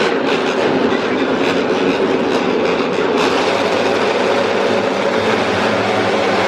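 Racing motorcycle engines running as a pack on the circuit: a loud, steady, dense engine din with no single bike standing out.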